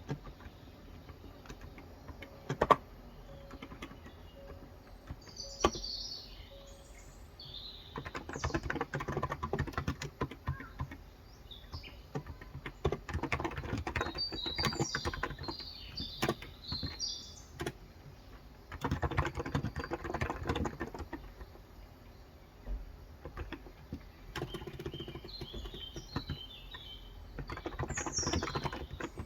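Typing on a Cox Endeavor electro-capacitive 35 g tenkeyless keyboard, in several runs of rapid keystrokes separated by short pauses. Birds chirp several times in the background.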